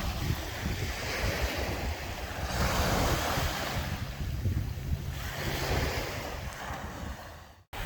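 Sea waves washing ashore, swelling and falling back, with strong wind buffeting the microphone as a low rumble. The sound cuts out completely for a split second near the end.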